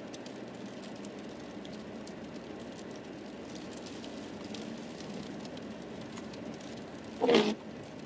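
Steady road and engine noise inside a moving car's cabin, with faint scattered ticks. About seven seconds in comes one brief, loud, rough burst of sound.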